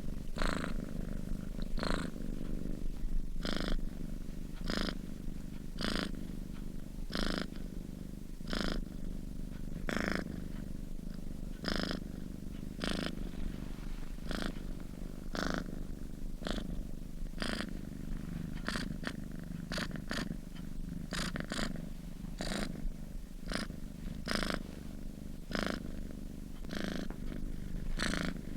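A sleeping domestic cat purring steadily. A soft rasp comes about every second and a half, and more often in the second half.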